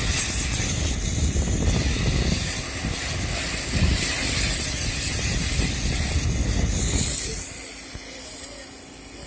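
Steady hiss of water spraying onto a car, dropping away about seven seconds in.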